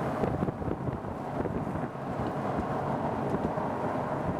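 Steady wind rushing on the microphone over the running noise of a moving vehicle.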